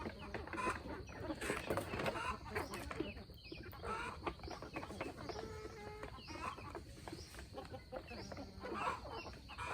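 A flock of chickens clucking, many short calls overlapping, with frequent light clicks and taps among them.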